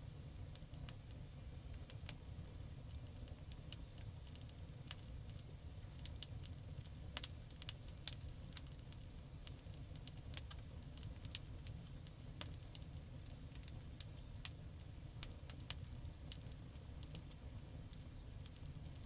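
Campfire crackling: irregular sharp snaps and pops, with a cluster of louder ones in the middle and one loud pop about eight seconds in, over a steady low rumble of the burning fire.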